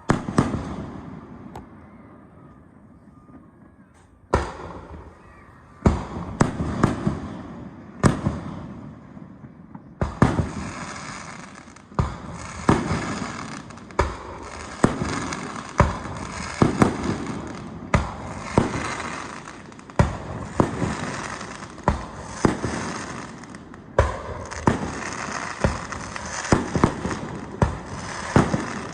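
Fireworks bursting: a few scattered sharp bangs, then from about ten seconds in a steady barrage of one to two bangs a second, each trailing off in a rumble.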